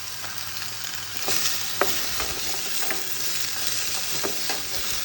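Chicken and vegetables sizzling in a pan on a camp cook stove, with a few sharp clicks of a utensil stirring against the pan. The sizzle grows louder about a second in.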